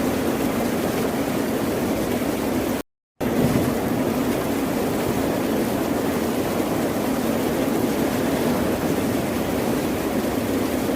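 Steady rush of ocean surf, an even, dense wash of water noise without distinct breaking waves. About three seconds in it cuts out to dead silence for about a third of a second, then resumes as before.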